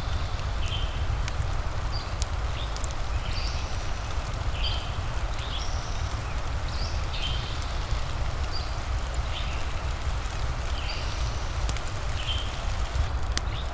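Steady rain ambience: an even hiss over a deep low rumble, with a few sharp crackles like a fireplace. Short high chirps repeat roughly once a second throughout.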